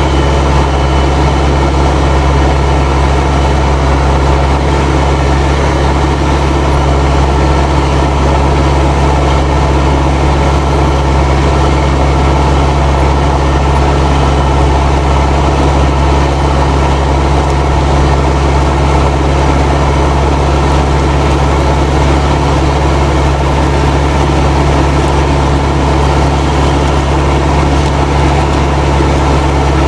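Fendt 307 Ci tractor's turbocharged diesel engine working steadily under load while ploughing, with the turbo whistling.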